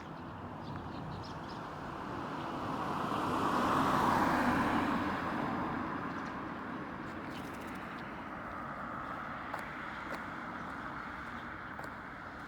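A road vehicle passes by, its tyre and engine noise swelling to a peak about four seconds in and then fading, over steady background traffic noise.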